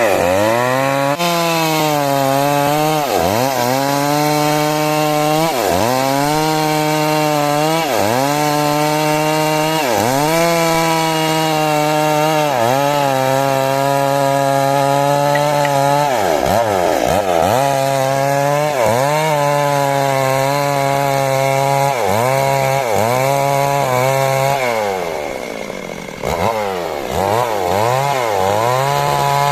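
Stihl MS 382 two-stroke chainsaw running hard while cutting timber lengthwise, its engine pitch dipping and recovering about every two seconds as the chain bites into the wood. Near the end the engine drops to a lower note for a moment, then revs back up.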